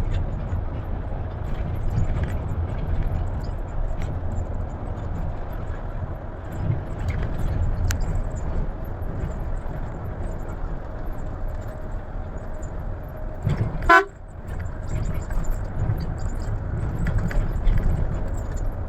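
Steady low engine and road rumble of a moving Scania coach, with one short, loud horn blast about three-quarters of the way through.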